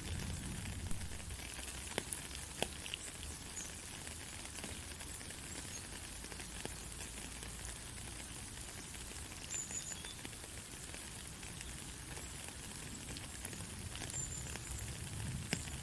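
Steady rain hissing, with a few separate drops ticking close by now and then.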